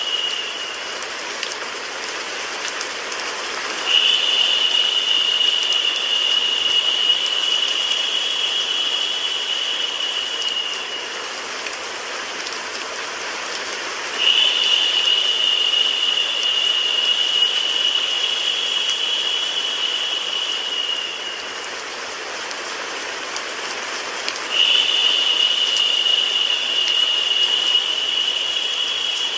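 Steady rain-and-white-noise sleep sound: an even hiss of rain. A thin, high, steady whine comes in abruptly about every ten seconds and holds for about seven seconds before fading away.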